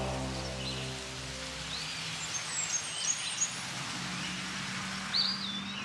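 Soundtrack music fades away over the first two seconds, leaving a steady outdoor hiss. Small birds give several short, high chirps over it, a cluster a few seconds in and one more near the end.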